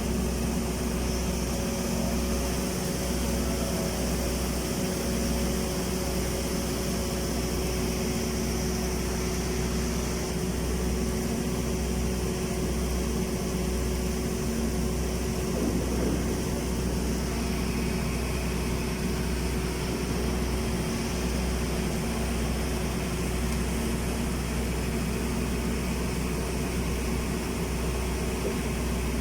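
Automatic girth welding equipment running with a steady mechanical drone, a strong low hum under it and a faint steady tone above.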